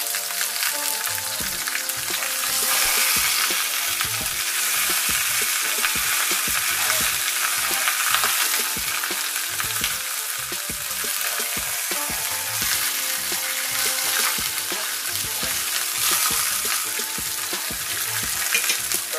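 Chicken leg quarters frying in a skillet, a steady sizzling hiss of fat and juices in the hot pan.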